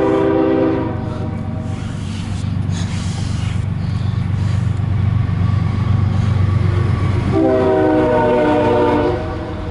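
CSX freight train's diesel locomotive blowing its multi-tone air horn: one blast ends about a second in, and a second blast of about two seconds starts around seven seconds in. Between the blasts the locomotive's engine rumbles steadily.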